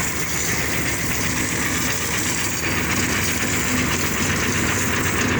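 A vehicle engine running steadily, with a constant hum and a dense, even noise that does not change.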